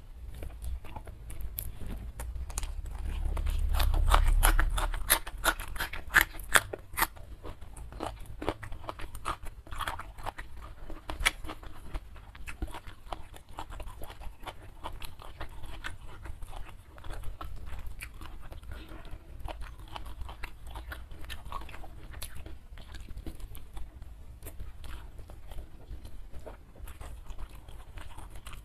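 Close-miked chewing of a handful of rice and side dishes eaten by hand, with many sharp crunches, thickest in the first seven seconds or so. A low muffled rumble swells about four seconds in.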